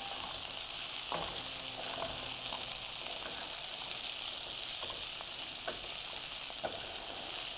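Shrimp sizzling in hot olive oil in a saute pan, a steady hiss, with light clicks of metal tongs against the pan as the shrimp are turned.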